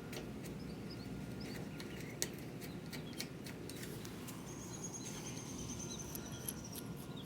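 Faint scattered clicks and clinks of steel bolts and nuts being handled on a lattice tower section, a couple of them sharper than the rest. A thin high whistle sounds for about two seconds midway, over faint high chirps and a steady low outdoor rumble.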